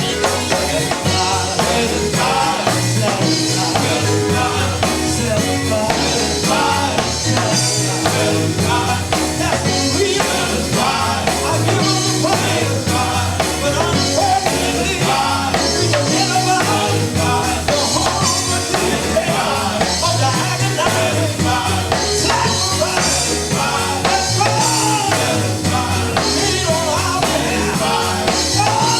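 Gospel group singing live with a band, a drum kit and bass guitar keeping a steady beat under the voices.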